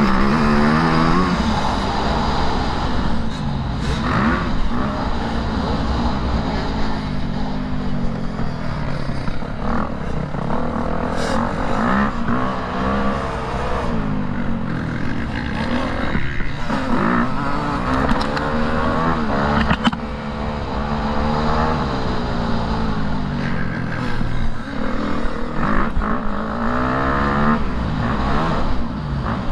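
Motocross bike engine riding hard, its pitch rising and falling over and over as the throttle opens and closes through the gears.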